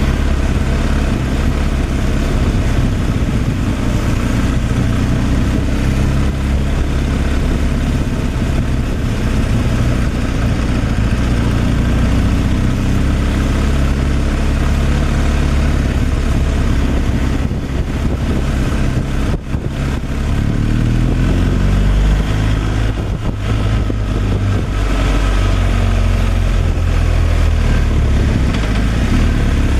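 Semi-truck engine running steadily under way, with road noise. About two-thirds through the sound dips briefly and the engine note then shifts in pitch, as at a gear change.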